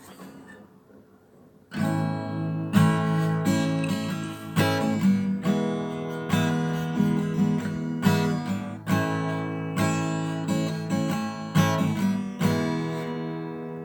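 Acoustic guitar being strummed, starting about two seconds in and playing a run of chords, the last chord ringing out and fading near the end.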